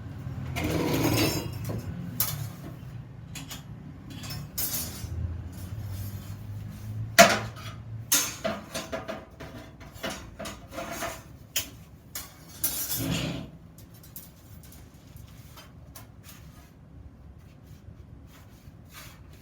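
Iron workpieces clinking and knocking as they are handled and set down on a metal surface, with one loud clank about seven seconds in and some short metallic ringing after it. There are two brief scraping sounds, and a low hum stops about eight seconds in.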